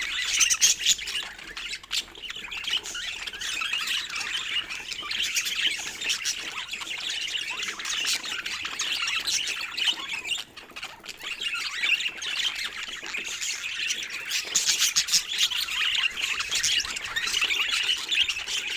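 Several budgerigars chattering and squawking together in a dense, continuous warble of high chirps, with brief lulls about two seconds and ten seconds in.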